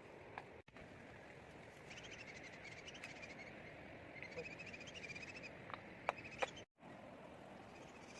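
A small animal chirping in a rapid string of high notes over a steady faint hiss, followed by two sharp clicks.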